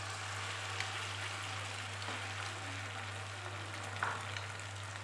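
Vegetable-and-egg omelette mixture sizzling in hot melted butter as it is poured into a small frying pan and spread with a steel spoon: a steady hiss, with a light click about four seconds in.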